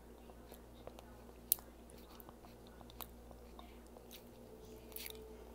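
A person chewing food, with a few sharp wet clicks of the mouth spread through the chewing.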